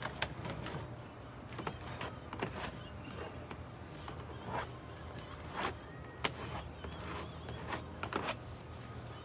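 Putty knife scraping and tapping against the camper wall in short, irregular strokes, about one or two a second.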